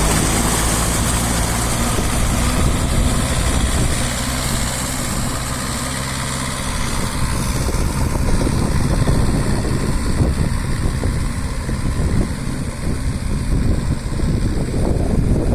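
Diesel engine of a VST Shakti MT270 four-wheel-drive mini tractor running steadily, turning rougher and noisier about halfway through.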